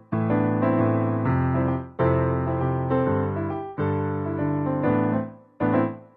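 Solo piano background music: a gentle piece played in phrases of chords, each phrase starting together and dying away.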